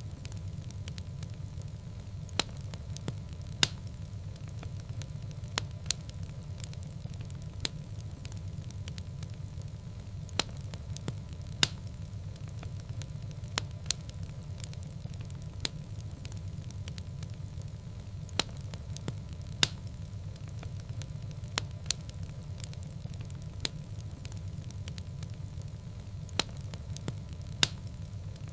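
Fire burning in a fireplace: a steady low rumble with sharp crackles and pops at irregular moments, about one every second or two.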